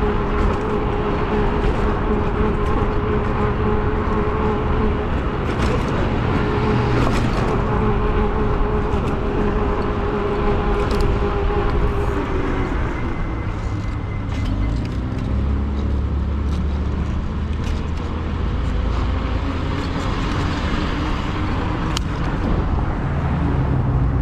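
Riding an e-bike in city traffic: steady wind and road noise with cars going by, under a steady whine that drops in pitch about twelve to fourteen seconds in as the bike slows. A brief high squeal sounds around the same time.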